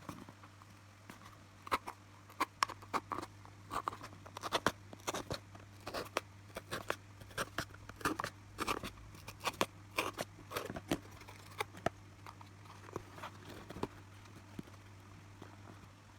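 Hand work on a small paper box and speaker parts: irregular sharp clicks and crunches, thickest in the middle, over a steady low hum.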